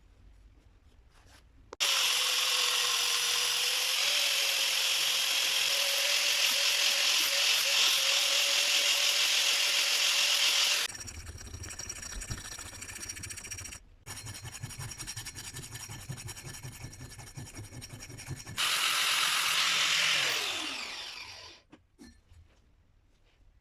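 An electric power tool running under load in long spells, with a quieter pulsing stretch in the middle. Near the end it is switched off and its motor winds down with a falling whine.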